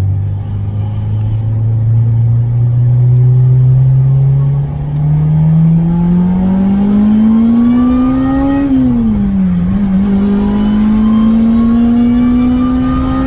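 Car engine accelerating hard, its pitch climbing steadily, dropping sharply at a gear change about nine seconds in, then climbing again.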